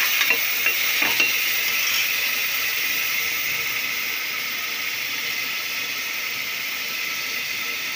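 Chopped tomatoes with onion and green chilli sizzling in hot sesame oil in an aluminium pressure cooker: a steady frying hiss that eases slightly, with a few faint clicks in the first second or so.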